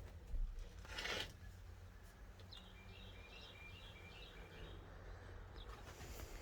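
Quiet ambience: a bird chirps faintly several times in quick succession in the middle, over a low steady rumble, with a couple of soft rustles near the start.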